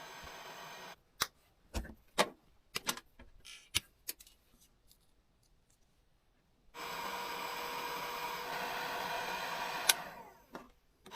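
Electric heat gun blowing with a steady rush, the likely way the new bilge-pump wiring connections are being heat-sealed. It cuts out after about a second, giving way to a few seconds of sharp clicks and knocks from handling the wiring and tools, then starts again for a few seconds with one sharp click near the end.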